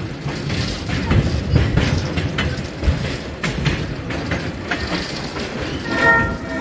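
Passenger train rolling along, heard from an open car: a steady rumble with wheels clicking over the rail joints. Near the end the locomotive's horn starts to sound.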